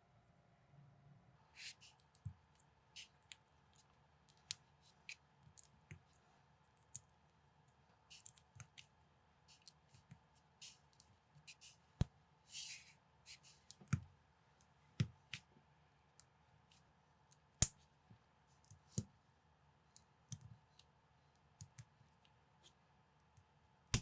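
Plastic building bricks being handled and pressed together, giving irregular sharp clicks and snaps, with a brief scrape about halfway through.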